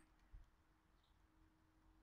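Near silence, with a soft low thump just after the start and one faint, short, high chirp from a small garden bird about a second in, over a faint steady hum.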